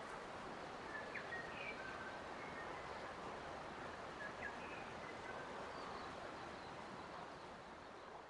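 Forest nature ambience: a steady rushing background noise, with scattered short bird chirps and whistles over it, several in the first half and a few more later.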